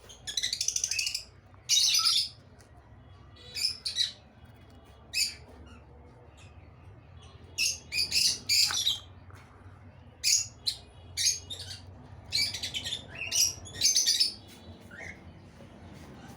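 Lovebirds chirping and squawking: short, shrill, harsh calls come in irregular bursts every second or so.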